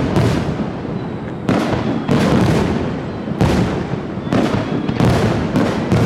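Aerial fireworks shells bursting in quick succession, about one bang a second. Each sharp boom is followed by a long rolling echo that overlaps the next.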